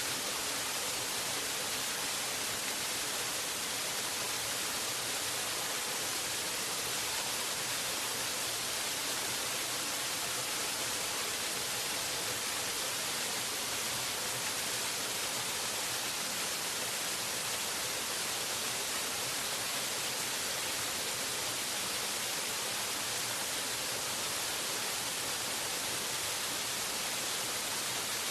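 Waterfall: a steady, even rush of falling water, bright and hissy, with no change or separate splashes.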